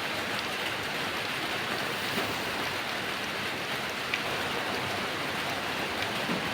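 Heavy rain falling in a steady hiss, with a few sharper drop hits standing out.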